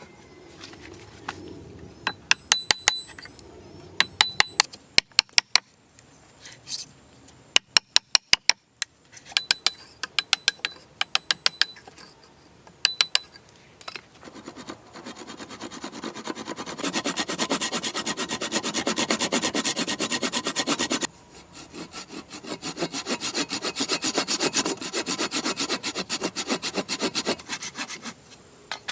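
Wood being cut by hand with a saw: a fast, steady run of rasping strokes that pauses briefly and starts again. In the first half, sharp clicks and taps come in short groups.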